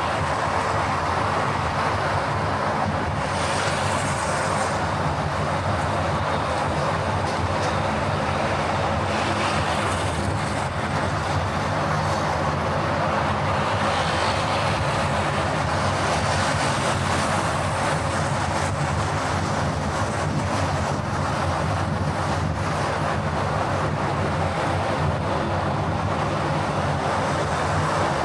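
Steady road and engine noise of a car on the move, with a brief hiss about four seconds in.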